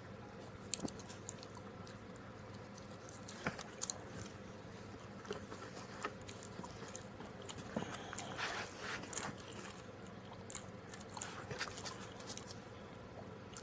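A person chewing and biting pizza close to the microphone, with soft, irregular mouth clicks and smacks.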